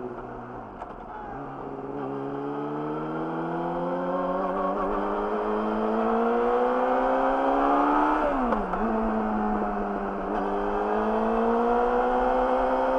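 Yamaha YZF-R6's inline-four through an Akrapovic slip-on exhaust, pulling up through the revs under acceleration. The pitch dips briefly about a second in, climbs steadily, drops sharply with a gear change about eight seconds in, then climbs again.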